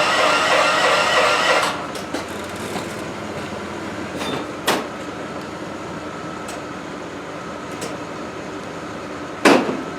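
Raven riding mower's engine being cranked by its starter on a jump start, not catching, and stopping abruptly about a second and a half in. A few sharp knocks and clanks follow over a faint steady engine hum, the loudest knock near the end.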